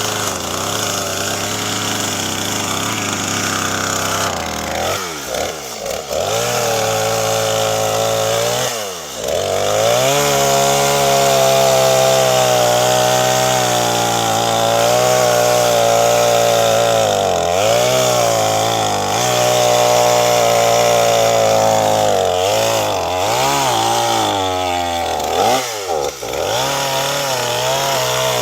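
Gas chainsaw running at high revs through a cut, its pitch dropping briefly and climbing again several times as the throttle eases off and comes back, with a long steady stretch at full speed in the middle.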